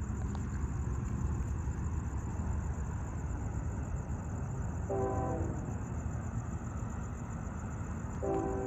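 Distant air horn of CSX heritage locomotive 1875 (P&LE scheme) sounding with an echo: a short blast about five seconds in, then a longer blast starting near the end, over a steady low rumble.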